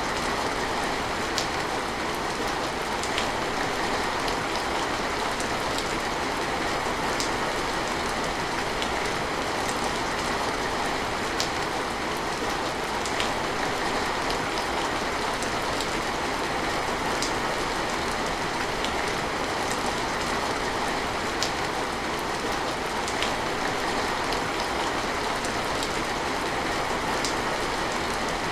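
Steady rain falling, an even hiss, with single sharper drops ticking every second or two.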